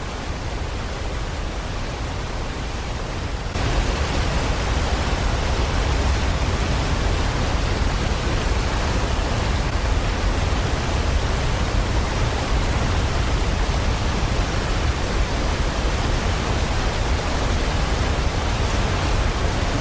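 Steady rushing roar of Seljalandsfoss, a waterfall dropping about 60 m. The roar gets louder about three and a half seconds in.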